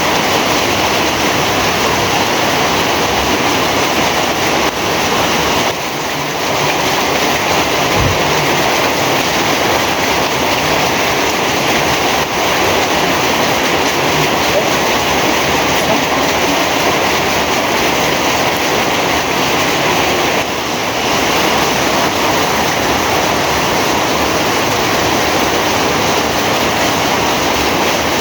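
Heavy rain falling, a steady, dense hiss of water.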